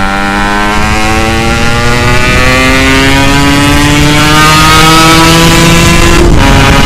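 Yamaha RX-King's single-cylinder two-stroke engine through a 'setengah dewa' aftermarket exhaust, pulling under acceleration with its pitch rising steadily. Near the end there is a brief break and the pitch drops: a gear change.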